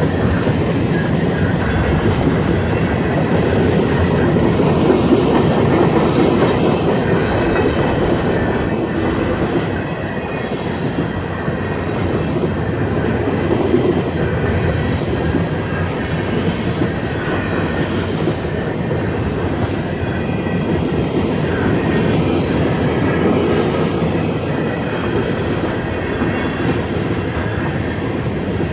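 Freight train of covered hopper cars rolling past: a steady, loud rumble of steel wheels on the rails with a clickety-clack over the rail joints.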